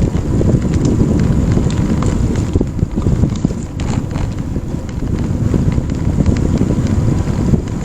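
Wind buffeting the microphone during a bike ride: a loud, steady, rumbling wind noise with a few faint clicks.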